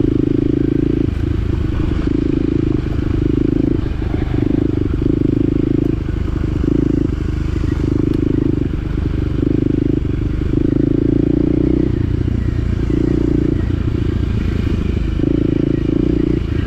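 Small off-road vehicle engine driving a rough trail, its drone swelling and dropping every second or so as the throttle is worked, over a steady low rumble.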